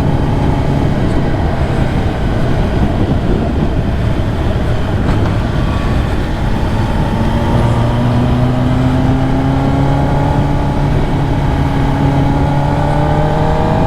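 2023 Kawasaki ZX10R's inline-four engine running under way, its pitch climbing slowly through the second half as engine speed rises.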